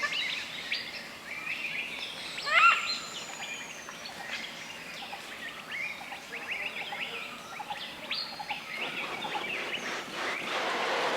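Several wild birds chirping and calling together, with one louder, pitched call about two and a half seconds in. A broader rushing sound builds near the end.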